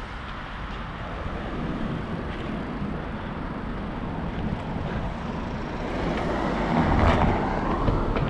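Wind rush and road noise picked up by a cycling action camera, with passing traffic. The noise swells louder about seven seconds in.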